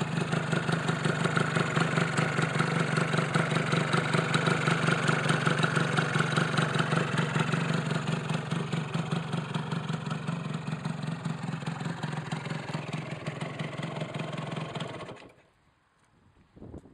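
Honda NS125R's single-cylinder two-stroke engine idling steadily with a slight pulsing, then switched off about fifteen seconds in, the engine note cutting out abruptly.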